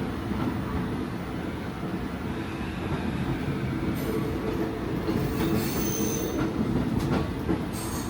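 Diesel railcar running on the rails with a steady low rumble, heard from the front of the car. Brief high-pitched wheel squeals come about four seconds in and again near the end as it slows toward the terminal station.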